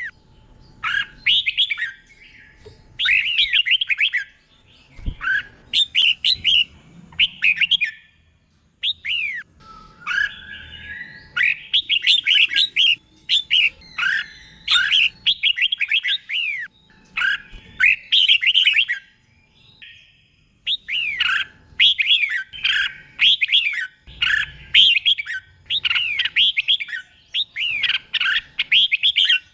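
Red-whiskered bulbul singing: short, bubbly phrases of quick gliding whistled notes, repeated one after another with brief pauses between them.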